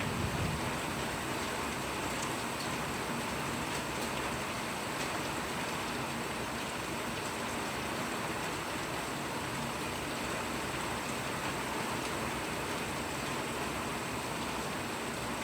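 Steady rain falling, an even, unbroken hiss of drops. A brief low rumble comes right at the start and fades.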